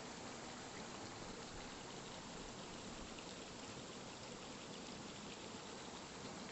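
Steady, even rushing of running water, with faint scattered ticks.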